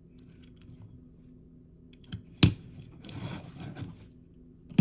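Hands handling small die-cast toy cars: light rustling and small clicks, with one sharp click about halfway through.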